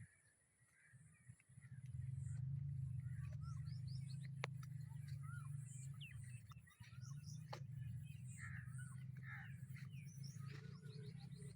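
Birds chirping and calling in short, scattered notes over a steady low rumble that sets in about a second and a half in.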